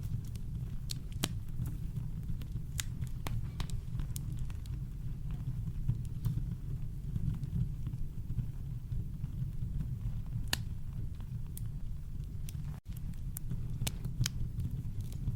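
Campfire crackling: scattered sharp pops and snaps of burning wood over a steady deep low rumble of brown noise. The sound cuts out for a split second about two-thirds of the way through.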